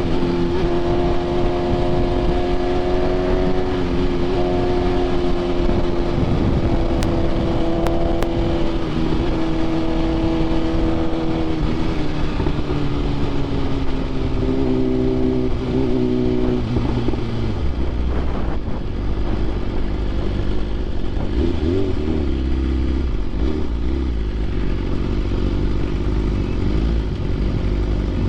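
BMW S1000RR's inline-four engine with aftermarket titanium headers and SC Projects exhaust, ridden under way: a steady engine note that slowly sinks, changes pitch about 14 seconds in, and after about 17 seconds gives way to a low rumble of wind and road noise.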